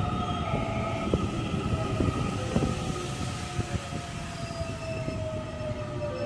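JR West 207 series electric train arriving and braking, its traction motors whining in a tone that slowly falls in pitch as the train slows, over a low rumble of wheels on rail with scattered clicks.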